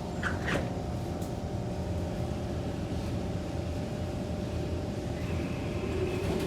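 Kawasaki C151 metro train, heard from inside the carriage, with a couple of knocks just after the start and then a steady low rumble. A whine in a few steady pitches comes in about five seconds in: the traction motors taking up as the train moves off.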